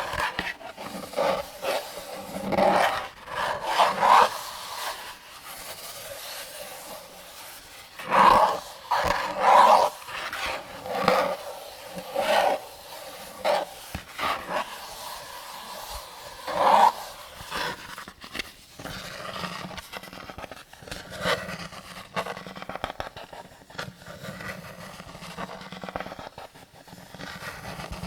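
Cartridges being pressed one by one into a 75-round AK-47 drum magazine: irregular metallic scrapes and rubbing, with sharp clicks as rounds go in.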